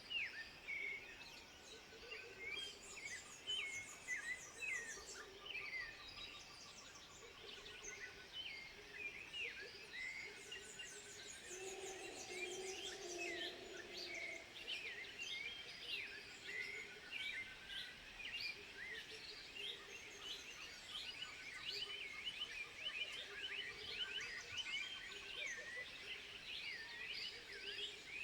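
A dense chorus of wild animal calls: many overlapping short, high chirps and quick whistled sweeps with a few trills, over a softer, lower-pitched call that swells briefly near the middle.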